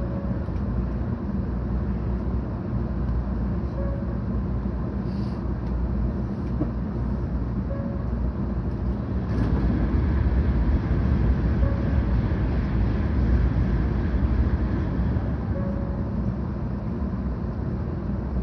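Cabin noise inside a 700 series Shinkansen running between stations: a steady rumble and rush of wheels and air, which swells louder for several seconds past the middle.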